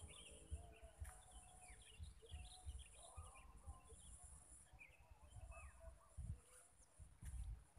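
Faint outdoor ambience of small birds chirping and calling in short, quick notes, over a steady high hiss, with scattered low thumps.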